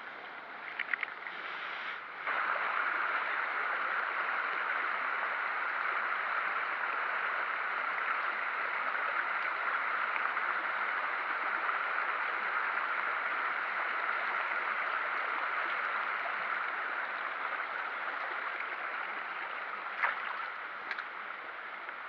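Steady rush of flowing stream water, which comes up suddenly about two seconds in, with a few short clicks near the start and near the end.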